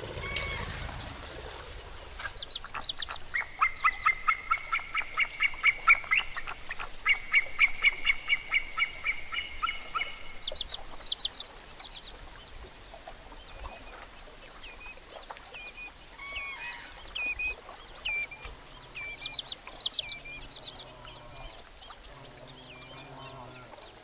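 Wetland birds calling: a short rush of noise at the start, then a rapid run of repeated calls, several a second, with higher chirps above them for about ten seconds, thinning to scattered calls and chirps.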